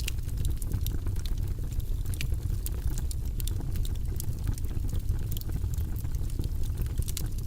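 Wood logs burning in a fireplace, crackling with many sharp, irregular snaps and pops over a steady low rumble of the flames.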